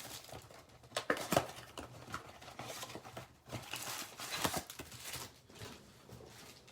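Blaster box of baseball cards being handled and opened: irregular crinkling, rustling and tearing of cardboard and foil pack wrappers, with a few sharper clicks.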